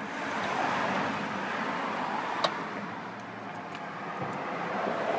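Passing traffic, the tyre and engine noise swelling and fading twice, with a single sharp click about halfway through.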